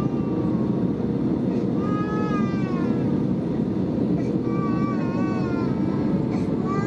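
Steady rumble of an Airbus A320neo airliner's engines and airflow on final approach, heard inside the aircraft. Over it, a high-pitched wavering tone rises and falls in short cries every second or two.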